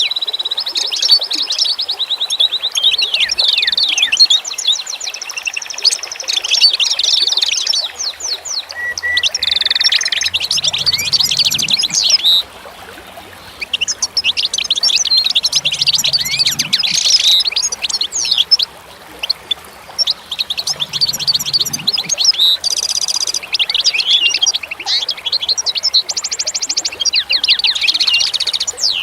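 Songbirds singing: rapid, overlapping high twittering and trilling phrases, with two short lulls partway through.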